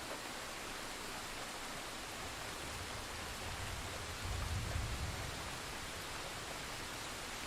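Thunderstorm sound effect: a steady hiss of heavy rain, with a low rumble of thunder that swells about three seconds in and dies away about two seconds later.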